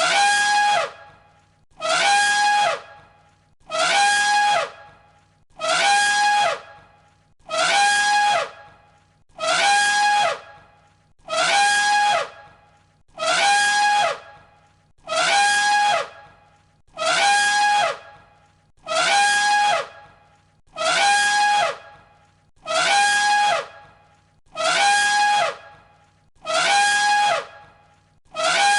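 Elephant trumpet call repeated on a loop: the same one-second blast about every two seconds, each falling in pitch at its end.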